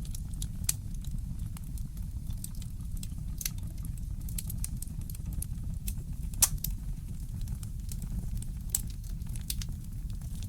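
Wood fire in a fireplace crackling, with irregular sharp pops and snaps over a steady low rumble; the loudest pop comes about six and a half seconds in.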